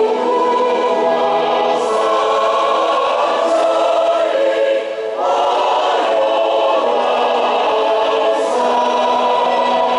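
Music with a choir singing long held notes, with a short dip in loudness about five seconds in.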